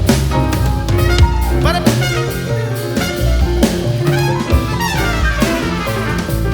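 Instrumental jazz passage from a live band: saxophone and trumpet play quick rising and falling runs over drum kit, double bass and piano.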